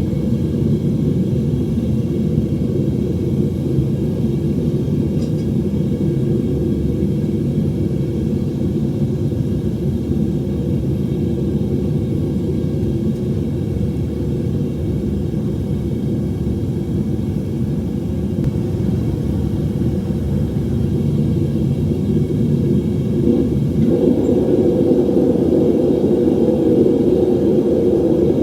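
Home metal-melting furnace burner running with a steady low rumble, growing a little louder near the end.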